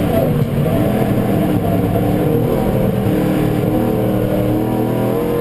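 Tatra V8 engine heard from inside the car's cabin at speed on a circuit. It runs continuously under load, its pitch unsettled for a moment about half a second in, then climbing slowly as the car pulls.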